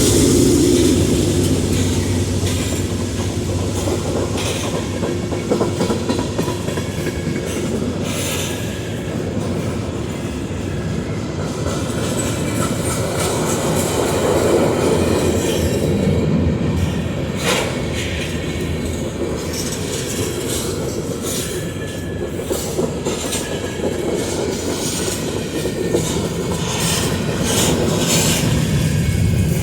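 A train rolling past, its steel wheels clicking over rail joints with occasional squeals, over a continuous rumble.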